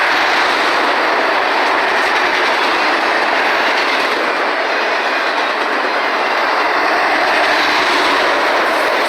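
CSX autorack freight train rolling past, a loud, steady noise of steel wheels running on the rails.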